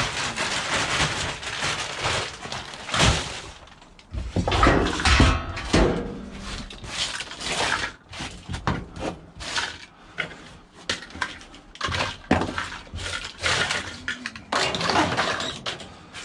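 Rummaging through dumped rubbish: irregular knocks, rustling and clatter of junk being handled and pulled about, heaviest about four to six seconds in.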